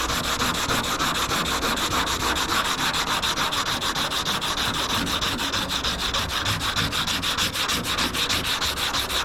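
Sandpaper on a rounded hand sanding block scrubbing back and forth over epoxy primer on a car door panel, in quick, even strokes. This is block sanding the primer to show up low spots and dings in the bodywork.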